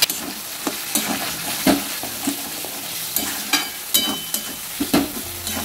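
Chopped tomatoes and onion-spice masala sizzling in hot oil in a metal kadai while a metal spatula stirs them, with irregular scrapes and knocks of the spatula against the pan, about two a second.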